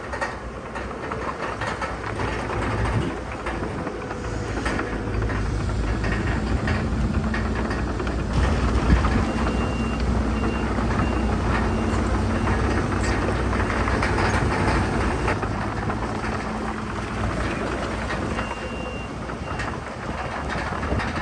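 Heavy diesel earthmoving machinery (bulldozer and dump trucks) running steadily with a low engine drone and a rumbling, rattling din. A backup alarm beeps in short runs about ten seconds in and again near the end.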